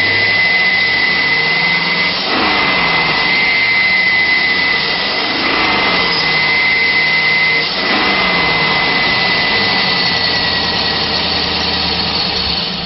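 2003 GMC Sierra 2500's 6.0-litre V8 engine running loudly, with a steady high whine over it and its pitch rising and falling three times. The level drops near the end.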